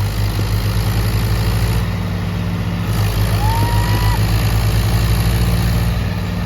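Tractor diesel engine running steadily, with a brief rising whistle-like tone about three seconds in.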